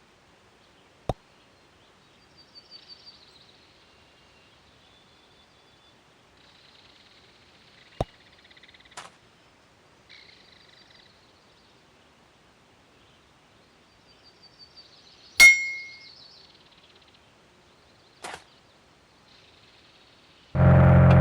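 Mostly quiet, broken by a few sharp clicks and faint high chirping, then near the end a loud audio sound system cuts in abruptly with heavy, steady bass.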